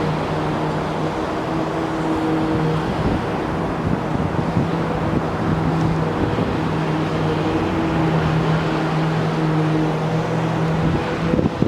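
An engine running steadily at a constant pitch, a steady hum over a noisy rumble. Near the end it stops and wind starts buffeting the microphone.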